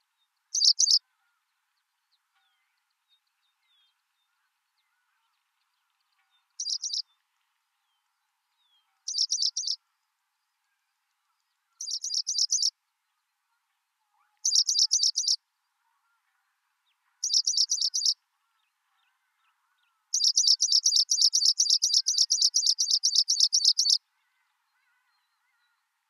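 A bird's high, rapid trill, given in short bursts every two to three seconds that grow a little longer, then one long trill of about four seconds near the end.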